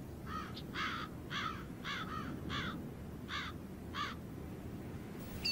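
A bird calling repeatedly, about eight short calls spread over four seconds, over a low steady rumble.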